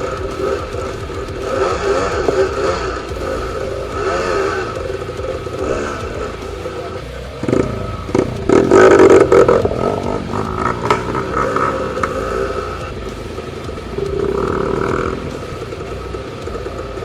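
Dirt bike engine running under changing throttle while riding off-road, revving up and down, with the loudest burst of revs about halfway through, over rattling of the bike.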